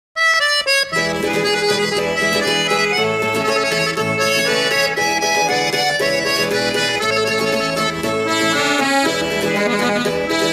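Instrumental music led by an accordion, starting abruptly at the very beginning and playing steadily.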